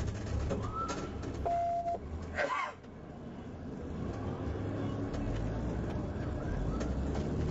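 Police vehicle engine and road noise during a pursuit, a steady low rumble that grows gradually louder in the second half, with a short single-tone beep about a second and a half in and a brief burst of voice around two and a half seconds.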